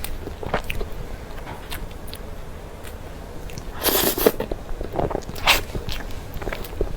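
Close-miked eating of soft cream cake: scattered small wet mouth clicks and chewing. There is a louder burst of noise about four seconds in and a shorter one about a second and a half later.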